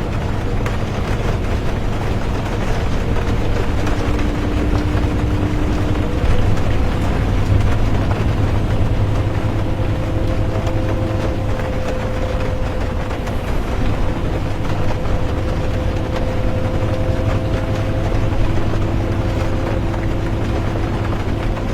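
Inside a moving bus: a steady low engine and road rumble with faint humming tones that drift slightly in pitch, under an even hiss of rain.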